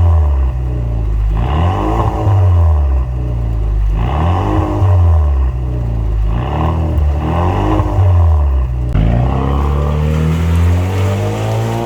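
Chevrolet Malibu 2.0T's turbocharged four-cylinder engine revved through a custom mid and end exhaust. Quick rev blips rise and fall about every two seconds, then a longer, slower climb in revs comes near the end.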